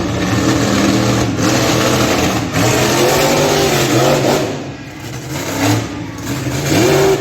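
Monster truck engine revving hard, its pitch rising and falling with the throttle; it eases off about four and a half seconds in and revs up again near the end.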